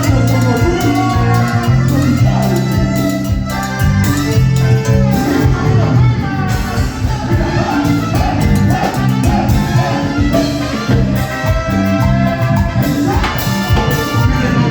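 A live band playing, with a steady beat, bass notes and horn-like melodic lines, heard from within the hall.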